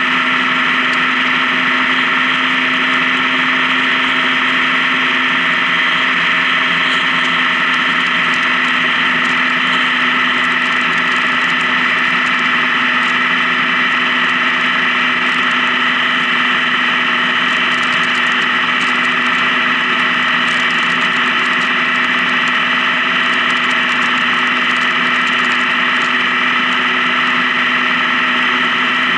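Honda Gold Wing motorcycle engine running at a steady cruise, a constant drone with no change in pitch or loudness.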